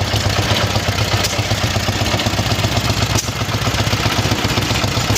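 Vintage stationary engine running steadily, with a low hum and mechanical clatter.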